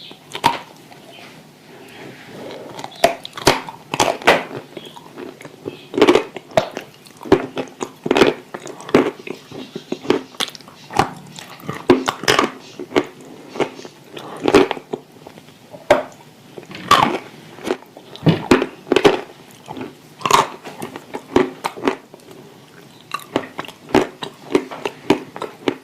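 Dry edible clay being bitten and chewed, with many sharp, irregular crunches.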